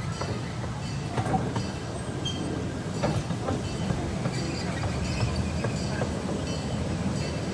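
Zoo train heard from on board as it runs along the track: a steady low rumble of wheels on rail, with scattered clicks and faint high wheel squeal now and then.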